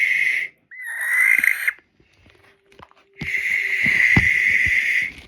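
Barn owl screeching: harsh, hissing shrieks, one trailing off at the start, a shorter rising one about a second in, and a long one of about two seconds near the end, given after a meal.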